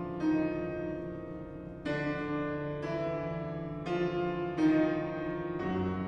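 Piano accompaniment playing sustained chords, a new chord struck about once a second, between phrases of an opera aria.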